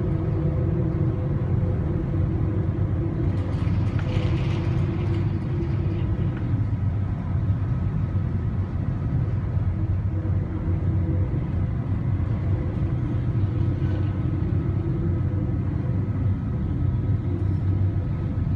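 Steady low rumble of an oil tanker's engines and machinery with a constant hum, heard aboard in a storm, with a brief rushing hiss about four seconds in.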